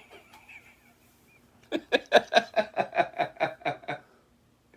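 A person laughing: a run of about a dozen quick, evenly spaced 'ha' bursts, about five a second, starting a little under two seconds in and stopping about two seconds later.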